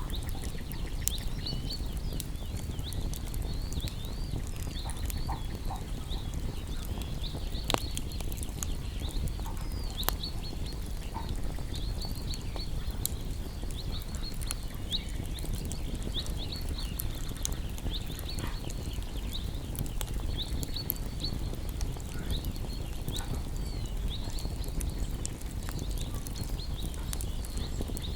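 Campfire of burning wood crackling, with scattered sharp pops over a steady low rumble. Many short, high chirping calls run throughout.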